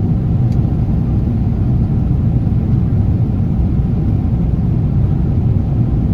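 Steady low cabin roar of a Boeing 777-300 airliner in cruise: engine and airflow noise heard inside the cabin.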